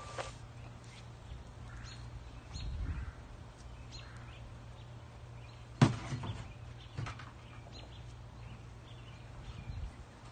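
Birds chirping over a steady low hum, with one sharp knock about six seconds in, a few lighter knocks after it, and dull low rumbles.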